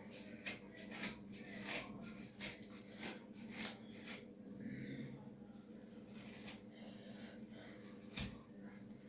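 Hands rubbing and working through washed hair locks: a run of short, scratchy rustles, about two or three a second, growing fainter after about four seconds, with one more near the end.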